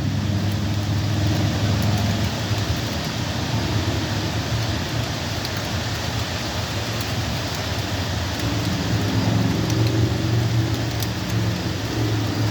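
Heavy rain falling steadily, with a low rumble underneath that fades after the first couple of seconds and comes back stronger near the end.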